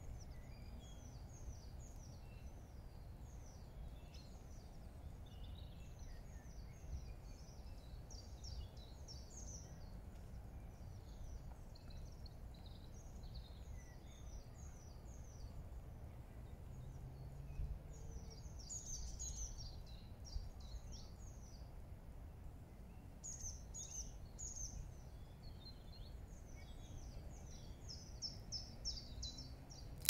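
Birds singing in the background: runs of quick, high chirps and twitters that keep coming throughout, over a faint low rumble.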